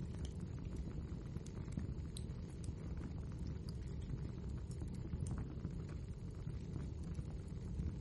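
Wood fire burning in a fireplace: a steady low rumble of the flames, with many scattered sharp crackles and pops of the burning logs.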